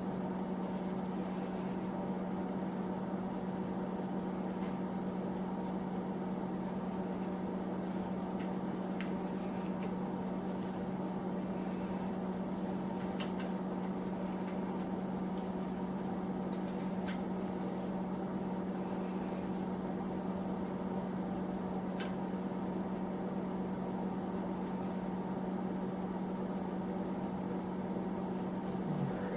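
Small space heater running with a steady hum, with a few faint clicks scattered over it.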